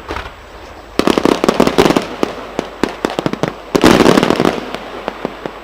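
Aerial fireworks going off: a dense volley of rapid sharp bangs about a second in, a second, louder volley near four seconds, and scattered single reports between, dying away near the end.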